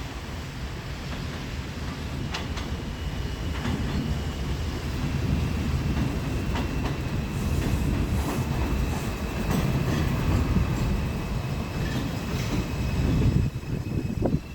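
New York City Subway R142-series train running through the station: a heavy rumble with scattered clicks of wheels over rail joints, and a thin, steady high-pitched tone from about two seconds in. The rumble builds over the first half and then holds.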